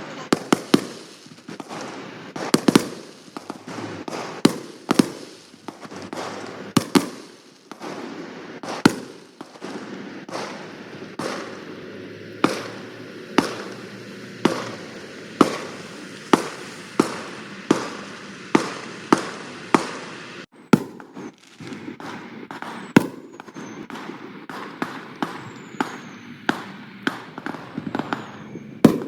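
Fireworks going off: a steady string of sharp bangs, about one to two a second, over a crackling hiss, with a few faint falling whistles in the second half.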